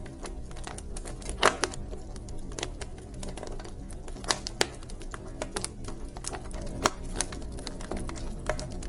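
Wood fire burning in a fireplace, crackling and popping irregularly over a steady low rumble, with louder pops about a second and a half in, near the middle and about two-thirds of the way through.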